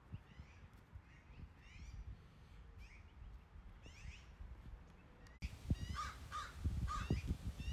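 Small birds chirping in repeated short, falling notes over a low outdoor rumble; both become suddenly louder at a cut about five seconds in.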